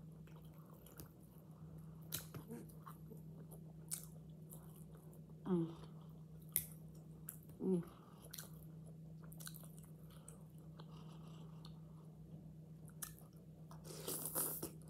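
Close-miked chewing and biting of soft marinated vegetables, with many small wet clicks and smacks of the mouth. There are two short hums about five and a half and eight seconds in, and a louder bite near the end as a new forkful goes in. A steady low hum sits under it all.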